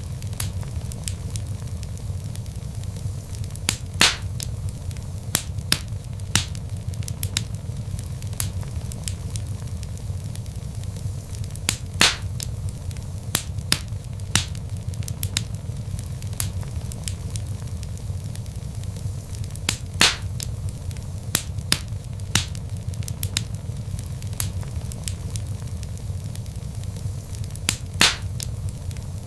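Log fire crackling: many small snaps over a steady low rumble, with a louder pop about every eight seconds.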